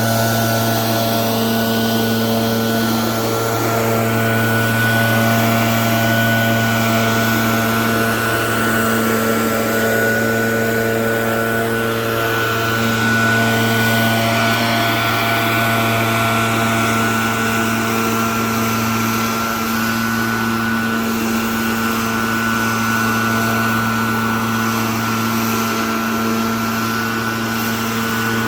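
Gas-powered leaf blower running steadily at a constant throttle, its engine note holding one pitch.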